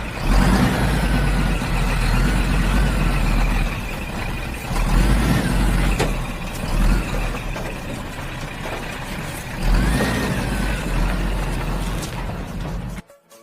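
Heavy engine sound of the tractor running, its revs rising and falling with several surges; it cuts off abruptly near the end.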